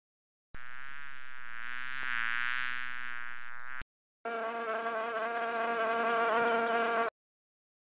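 Insect buzzing, heard as two separate steady buzzes, each starting and stopping abruptly, with a short silence between them.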